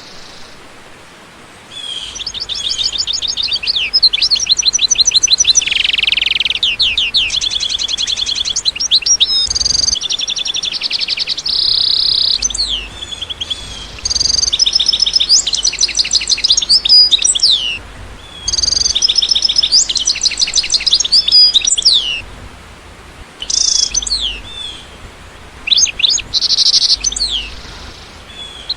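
A bird singing loud, rapid trills and chirps in phrases of a few seconds, separated by short pauses, starting about two seconds in.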